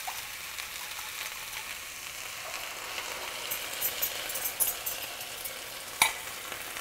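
Tofu and vegetables sizzling in a hot stainless nonstick skillet. The crackle picks up about halfway through as the orange-ginger sauce is poured into the pan. One sharp clink comes near the end as the whisk knocks against the glass bowl.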